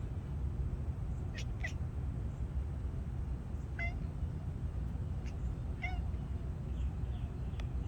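Bengal cat chattering at birds: short pitched calls, a quick pair about a second and a half in, then single calls about four and six seconds in, over a steady low background rumble.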